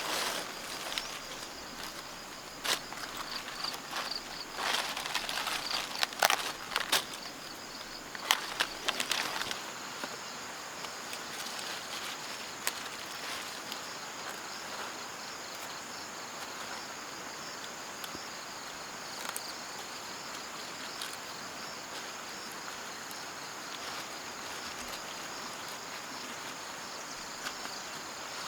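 Insects chirring, most likely crickets: a pulsing high-pitched chorus with a steadier high whine joining about a third of the way in. Scattered clicks and rustles, like footsteps or handling, come over it during the first third.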